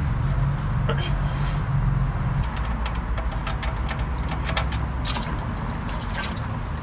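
A steady low mechanical drone, with a run of light clicks and clinks starting about two and a half seconds in.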